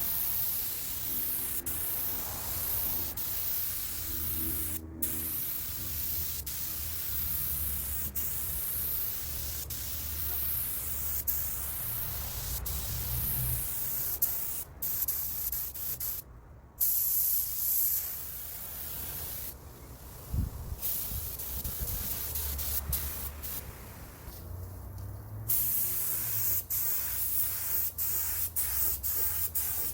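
Air-atomising paint spray gun hissing steadily as it lays the first coat of base paint, cutting off briefly several times as the trigger is released between passes. A low rumble runs underneath.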